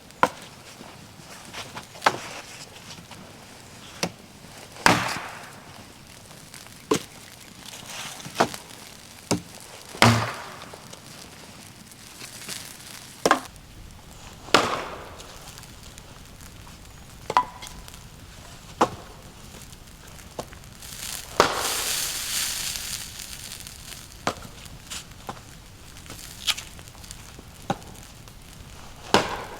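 Wood being chopped: sharp, single wooden knocks at an uneven pace, roughly one every one to two seconds. About two-thirds of the way through, a longer rustling crash lasts a couple of seconds.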